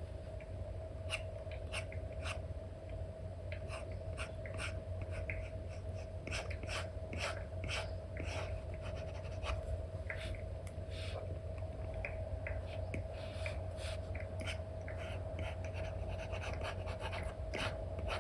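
Stylus nib tapping and stroking on an iPad's paper-like screen film, in many short, irregular strokes, over a steady low hum.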